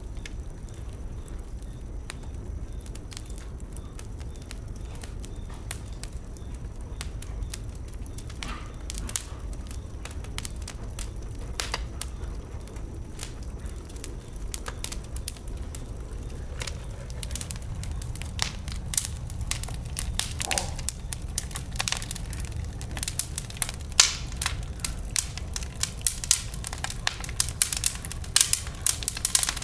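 Wood bonfire crackling and popping over a low steady rumble; the pops are sparse at first and become more frequent and louder in the last ten seconds or so.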